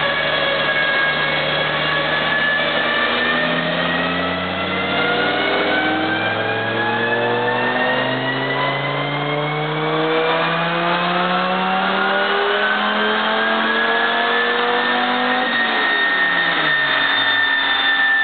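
Turbocharged Volvo station wagon engine in a loaded chassis-dyno pull, revving from under 2,000 rpm to about 6,000 rpm, its pitch climbing steadily. The climb levels off near the end.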